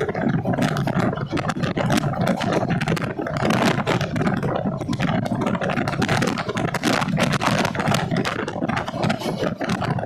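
A passenger train in motion: a steady rumble with dense, fast rattling and clattering throughout.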